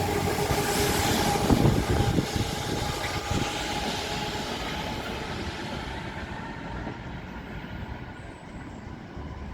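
A train running along the track, its rumble and steady whine fading away as it recedes. A few wheel knocks over rail joints come in the first couple of seconds.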